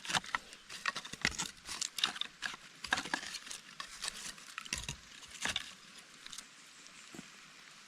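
Light rustling and quick clicks of split bamboo and dry kindling being handled and laid on the ground to build a fire base, dying away about six seconds in.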